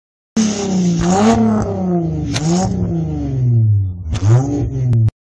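Car engine revving, its pitch rising and falling several times with a few sharp cracks in between, cutting off suddenly near the end.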